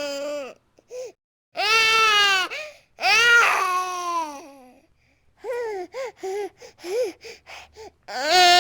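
A baby crying: a few long wails, each falling in pitch, then a run of short, choppy sobs, and another wail starting near the end.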